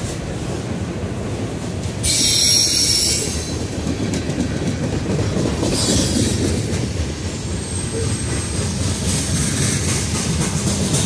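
CSX freight train cars rolling past close by, a steady rumble of steel wheels on rail, with a high wheel squeal about two seconds in.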